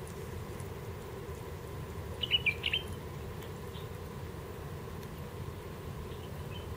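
A bird gives a quick run of four or five sharp, high chirps about two seconds in, with a fainter call near the end, over a steady low background hiss of outdoor ambience.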